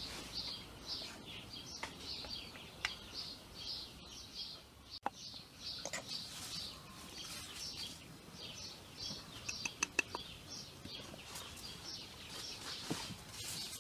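A songbird chirping over and over, short high chirps about twice a second, with a few faint taps of a drinking glass scooping flour from a steel bowl.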